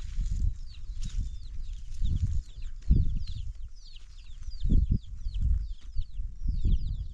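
Chicks peeping: many quick, falling cheeps overlapping. Under them is a low, irregular rumble that swells a few times.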